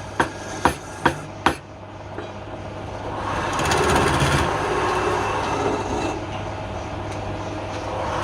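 Wood lathe humming steadily, with about five sharp wooden knocks in the first second and a half. From about three seconds in, a rasping scrape of a tool working the spinning wood swells and then eases off after about six seconds.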